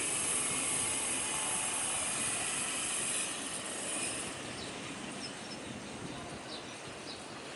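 Jet airliner engine noise, a high steady hiss that fades away after three or four seconds, leaving faint bird chirps.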